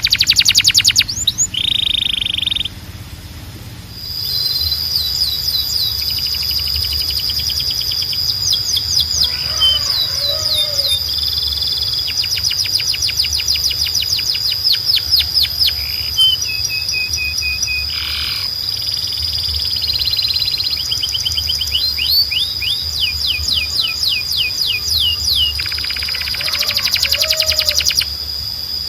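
Domestic canary singing a long song of fast trills, each a run of quickly repeated falling notes, with a high steady whistled note held through most of it and a short pause about three seconds in.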